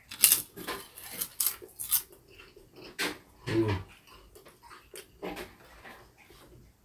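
Crisp crunching of a fried kelp chip (dasima twigak) being bitten and chewed, loudest and densest in the first two seconds, then fainter chewing. A brief low hum of the voice comes about halfway.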